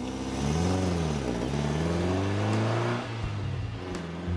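Lancia Fulvia Coupé's narrow-angle V4 engine accelerating as the car drives by. Its note climbs, dips, climbs again, then falls away about three seconds in and runs on steadier.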